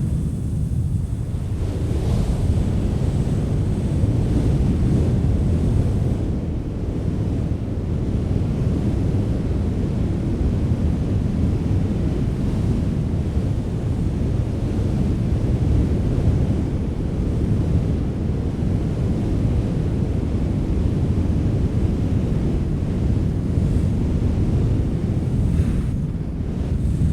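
Wind blowing hard: a steady, low rushing noise that rises and falls a little.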